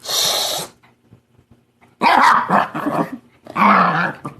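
Dog barking and growling in rough play, twice in the second half, after a short noisy huff at the start.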